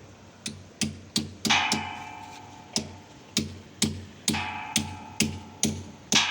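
Hammer blows on iron gate fittings, about two a second, several of them leaving a bright metallic ring.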